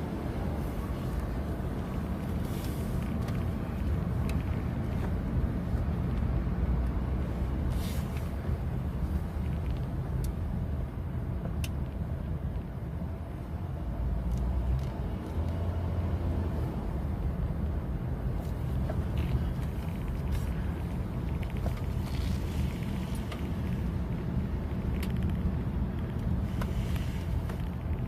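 A car driving, heard from inside: steady low road and engine rumble, with a few brief clicks.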